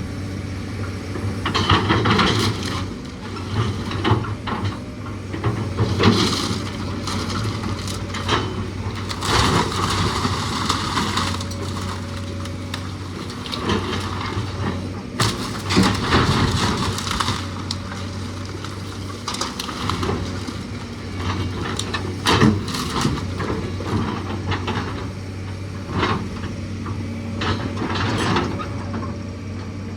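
A machine's engine runs steadily while the wooden structure of an old house is crushed and torn apart, with irregular cracks, crunches and splintering crashes, the heaviest a few times over the half minute.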